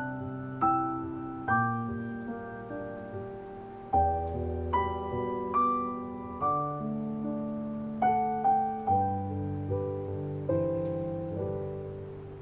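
Soft background piano music: slow single notes over sustained low chords, with the notes fading after each strike.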